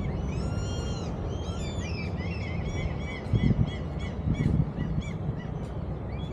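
Birds calling: a couple of longer bending calls just after the start, then a quick run of short, high calls, about three or four a second, fading out near the end, over a steady low background rumble.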